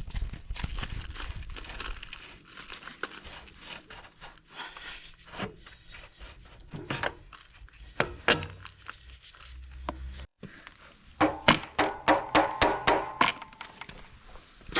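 Hand work on a motorcycle's rear swingarm: scattered clicks and knocks of tools and metal parts being handled, then, after a brief break about ten seconds in, a quick run of about a dozen sharp ringing metal taps.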